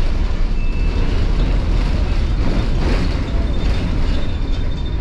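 Tram in motion: a steady low rumble of the ride, with a short swell of rattling noise about halfway through.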